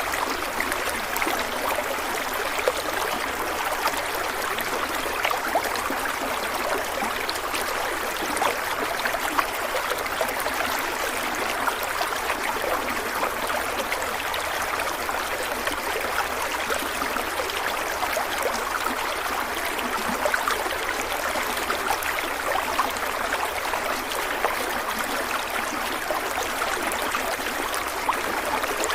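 A stream of water running steadily over rocks, with a constant rushing and many small splashes and trickles.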